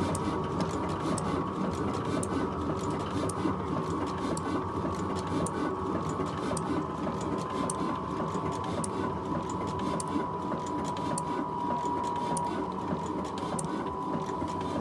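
Old diesel engine running steadily, driving a flour mill, with a steady high whine over the even mechanical running.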